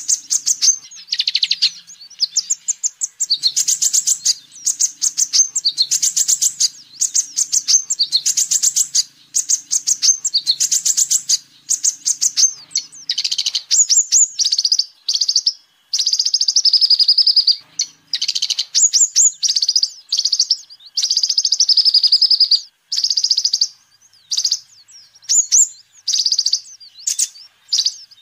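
Kolibri ninja, a sunbird, singing: loud, rapid, high-pitched trilled phrases repeated over and over with short pauses between them.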